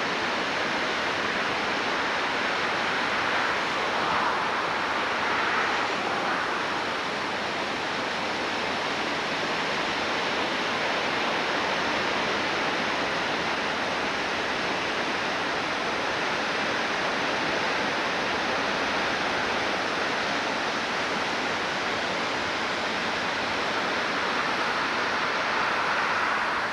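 Creek in flood, its high water rushing in a steady, unbroken roar.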